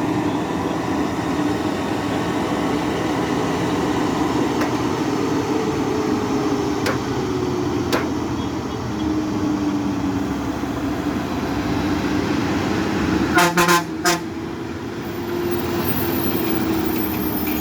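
Heavy vehicle engine running, its pitch drifting up and down, with two short horn toots about thirteen seconds in.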